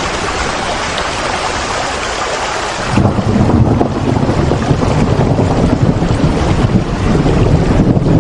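Steady rain falling as an even hiss; about three seconds in, a deep, louder rumble sets in under the rain and carries on while the higher hiss thins.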